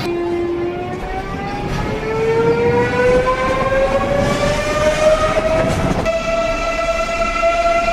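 Electric train's traction motors whining as it accelerates. The pitch rises smoothly for about five seconds, then levels off and holds steady.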